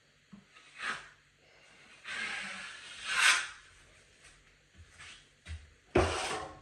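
Drywall knife scraping and spreading joint compound in a few separate swipes. There is a short scrape about a second in, a longer swipe from about two seconds that grows louder and then fades, and a sharp scrape near the end.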